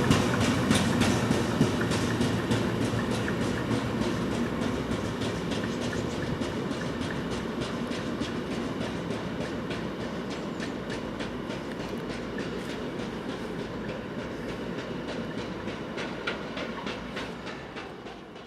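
Gypsum freight train hauled by a Class 66 diesel locomotive passing and moving away: the wagon wheels click in a regular clickety-clack over the rail joints, and the low hum of the engine fades as the whole sound dies away gradually.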